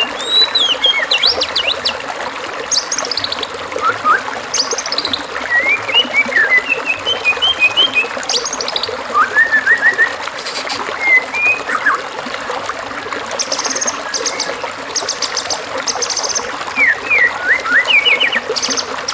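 White-rumped shama (murai batu) singing a varied song of short whistled phrases, trills and fast rattling notes, over a steady trickle of running water.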